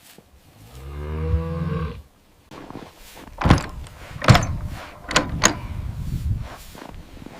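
A cow gives a short low moo that rises and falls in pitch, then come several sharp knocks and clunks, the loudest a little past the middle, over a low rumble.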